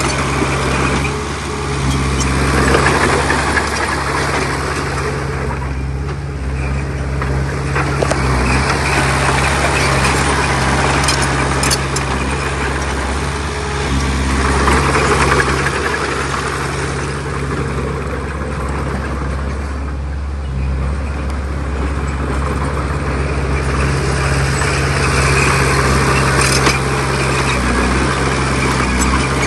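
Heavy diesel engine of earthmoving machinery running steadily with a deep, constant hum, under a noisier rattling layer that swells and fades about four times.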